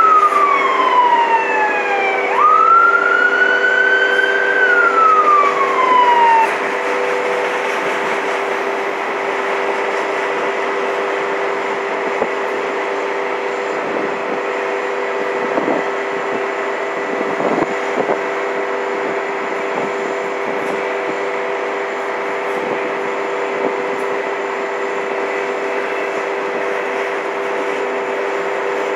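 A freight train of autorack cars rolling through a grade crossing: a steady rumble with a few clanks in the middle. Steady ringing tones from the crossing bell run through it. A siren wails up and down twice and fades out about six seconds in.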